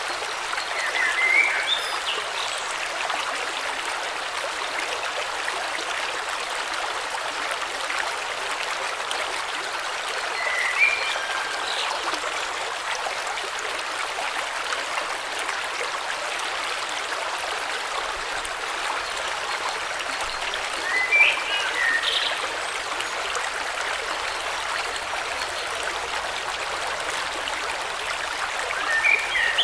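River water flowing steadily, with short bird chirps breaking in four times, roughly ten seconds apart.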